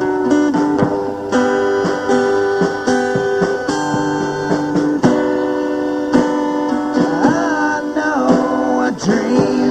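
Live acoustic guitar music: chords strummed in a steady rhythm. From about seven seconds in, a bending, wavering melodic line joins over the chords.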